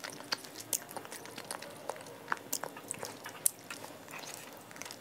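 A mouthful of canned chunk light tuna with mayonnaise being chewed, with faint, irregular wet clicks and ticks throughout.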